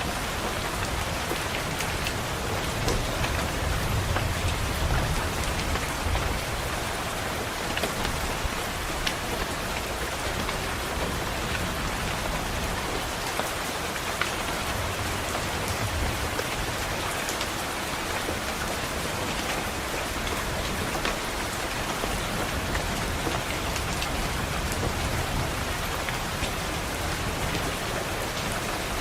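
Steady rain tapping on a window, with scattered sharper drop ticks. A low distant thunder rumble swells under it a few seconds in and fainter ones come and go later.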